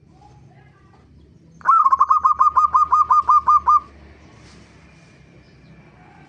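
Zebra dove (perkutut) calling: a rapid run of about a dozen short, evenly spaced notes, each with a slight upward hook, lasting about two seconds.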